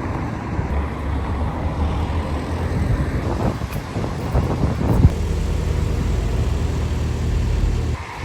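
A vehicle's engine running with a steady low drone and rough noise over it; there is a knock about five seconds in, after which the drone runs steadier, and it drops off suddenly just before the end.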